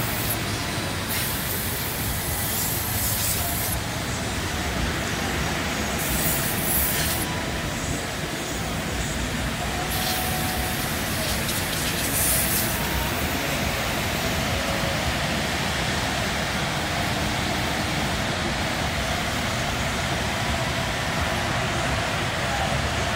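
Steady vehicle noise with several short hissing bursts in the first half.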